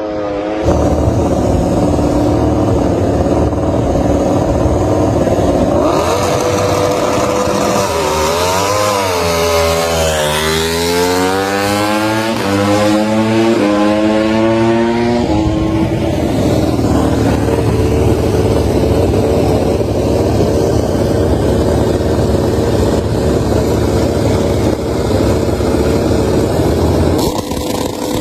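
MotoGP racing motorcycle engine running hard. About a third of the way in its pitch dips and swings back up, then climbs in several quick steps through upshifts before settling into a steady high-revving drone.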